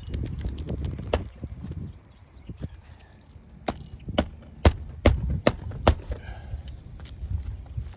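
A low rumbling for about two seconds, then a series of irregular sharp knocks and taps, spaced roughly half a second apart in the middle of the stretch.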